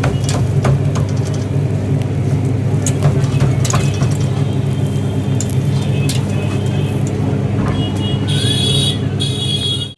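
Busy street noise: a steady engine-like drone with frequent sharp clicks and clinks. A horn-like high tone sounds for about a second and a half near the end.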